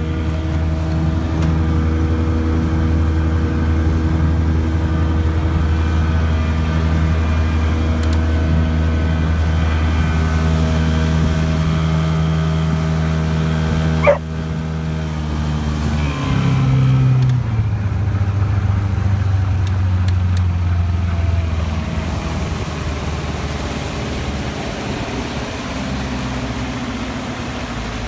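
100 hp Johnson outboard motor running steadily at speed under way, then throttled back about two-thirds of the way through, its note dropping and fading into the rush of wind and water. A single sharp click about halfway through.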